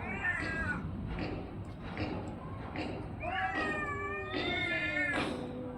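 A cat yowling: a short call at the start, then two long drawn-out calls back to back from about halfway, each sliding down in pitch at the end.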